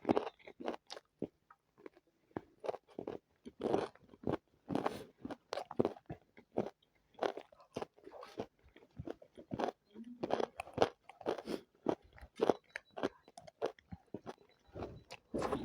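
Close-up eating sounds: chewing and biting spicy chicken biryani and chicken legs, with many short, irregular crunches and wet mouth sounds, a few every second.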